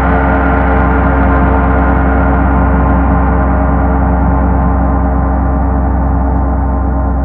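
Paiste Sedna gong sounding with a deep, sustained rumble: many held tones over a low pulsing drone, its higher overtones slowly fading while the low rumble carries on.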